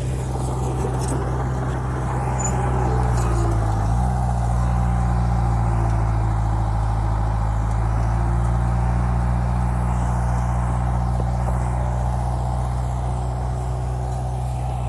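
Dump truck's diesel engine running steadily, its pitch stepping up slightly about four seconds in and then holding.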